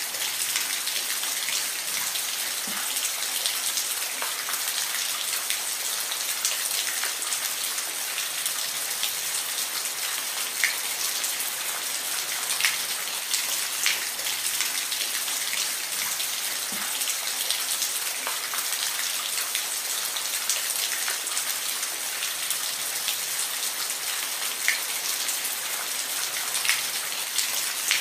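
Steady rain falling, a dense hiss with scattered louder single drops ticking on a surface.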